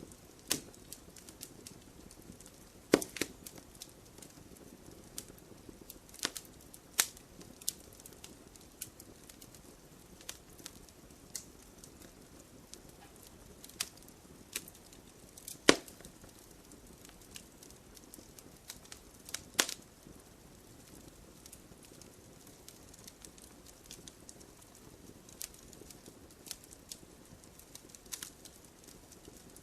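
Wood fire crackling: irregular sharp pops and snaps over a faint steady hiss of burning, with a handful of much louder snaps scattered among the small ones.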